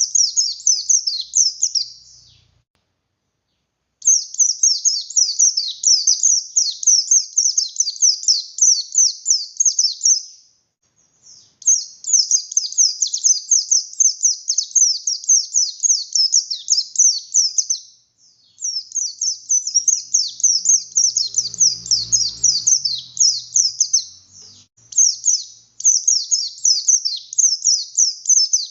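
Oriental white-eye of the buxtoni race singing a long, fast run of high chirped notes, repeated in bursts, with short breaks about two, eleven and eighteen seconds in.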